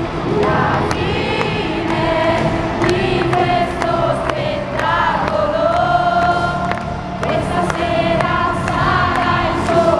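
Live pop-rock song played by a band through a stadium PA, with many voices singing the melody together as the audience sings along.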